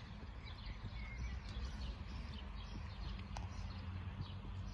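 Small birds chirping in short repeated calls over a low, steady outdoor rumble.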